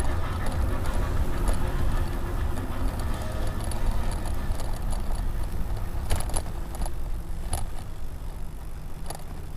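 Riding noise from a touring e-bike: a steady low rumble of wind and tyres on the road, with a few sharp clicks and rattles.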